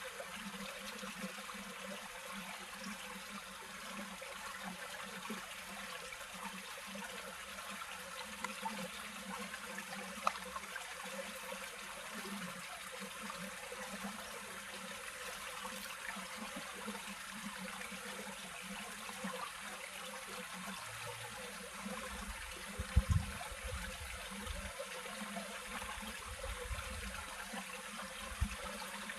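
Water running and trickling steadily, like a small stream or river flow. A few low thumps come near the end.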